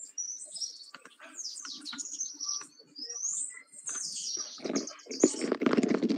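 Small birds chirping and twittering, many quick high sliding notes, picked up through a participant's open microphone on a video call, with a louder burst of noise about five seconds in.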